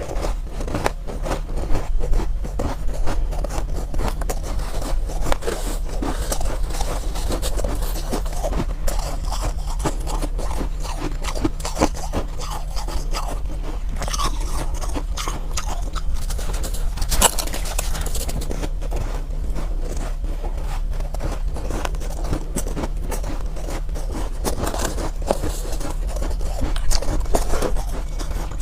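Soft powdery ice being scraped from a bowl and crunched while eaten: continuous close crackling and crunching over a steady low hum.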